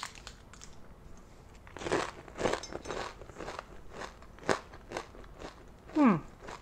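Chewing a whole crisp, oily giant water bug: a handful of sharp crunches as the teeth break through its hard exoskeleton and wings. Near the end comes a short, louder 'mm' that falls in pitch.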